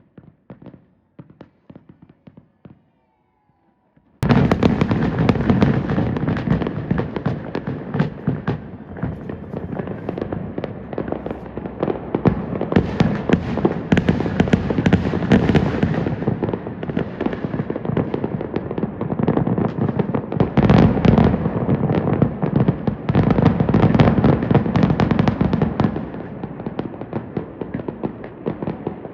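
Fireworks going off in a dense, near-continuous barrage of bangs and crackles. It starts abruptly about four seconds in, after a few faint pops.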